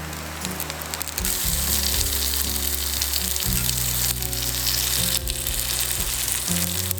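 Food sizzling and frying in a hot pan, the sizzle getting louder about a second in, over background music.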